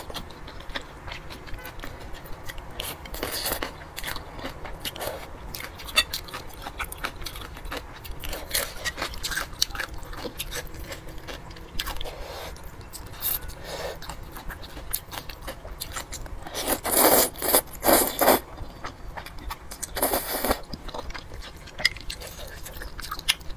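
Close-miked eating: chewing and crunching through thick noodles with raw celery pieces, a run of small crackly bites, with louder, noisier bursts of eating sound about three-quarters of the way through.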